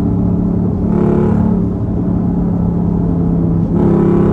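A straight-piped Hemi V8 in a Dodge Durango SRT runs under load at a steady engine speed with a deep exhaust drone. The exhaust swells louder twice, about a second in and again near the end.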